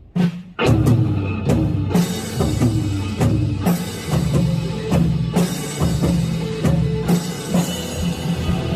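Drum kit played along to a trot song backing track. The full band and drums come in together about half a second in, with bass drum and cymbal hits over the track.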